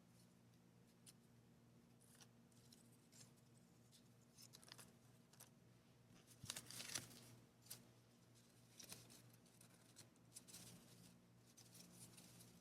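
Faint rustling and small clicks of paper and packaging being handled, with a louder flurry of rustling about halfway through, over a low steady hum.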